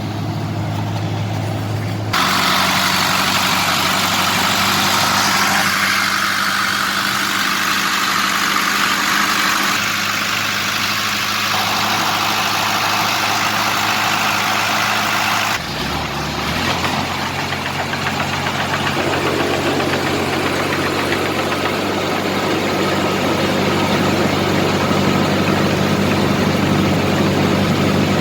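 Tractor diesel engine running steadily, with a loud mechanical noise from the clay-mixing machinery over it. The sound changes abruptly about two seconds in and again about halfway through.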